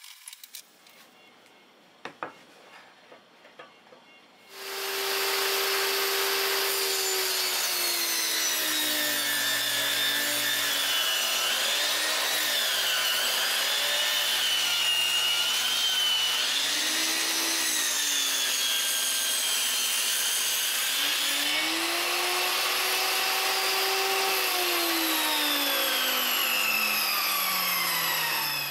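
Electric saw cutting wood: the motor starts about four seconds in, its pitch dips and recovers several times as it comes under load in the cut, and near the end it is switched off and winds down with a falling pitch.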